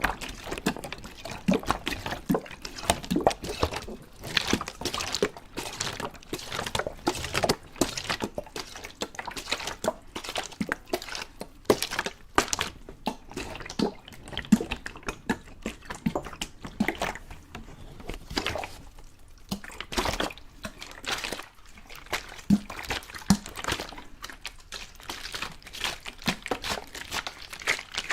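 Water dripping and splashing in a quick, irregular run of small plops and clicks, some with a short hollow pitch.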